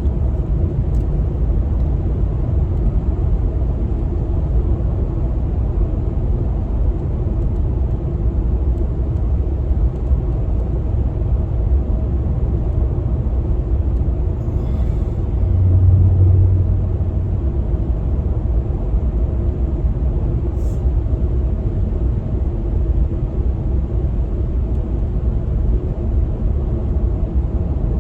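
Truck driving along: a steady low rumble of engine and road noise heard inside the cab, with a brief louder low hum about halfway through.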